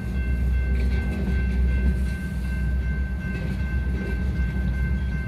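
Freight cars rolling past at a road grade crossing: a steady low rumble of wheels on rail, with occasional clacks and a steady high tone above it.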